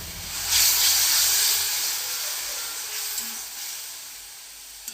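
Onion and spice masala sizzling in hot oil in a kadai as red chili powder goes in. The sizzle flares up about half a second in and then slowly dies down.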